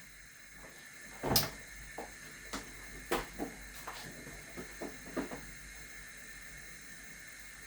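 Kitchen handling noise as a Dutch pot is fetched and set out: one louder knock about a second and a half in, then a run of lighter clicks and knocks that stops a little past halfway, over a faint steady hiss.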